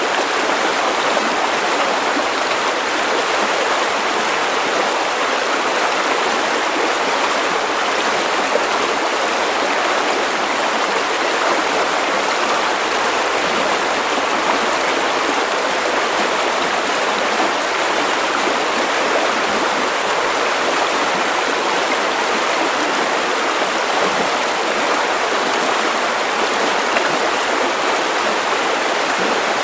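River water running over rocks, a steady, even rushing with no breaks.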